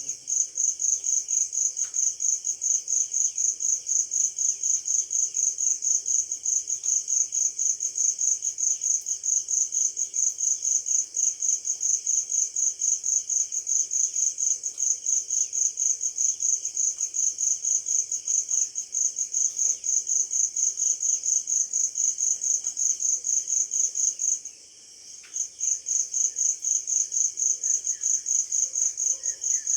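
A cricket chirping in a fast, even, high-pitched pulse that breaks off for about a second some 25 seconds in, then resumes. Faint bird chirps sound underneath.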